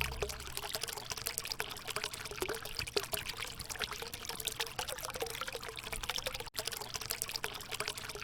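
River water bubbling and trickling steadily, with many small splashes and gurgles. There is one momentary dropout about six and a half seconds in.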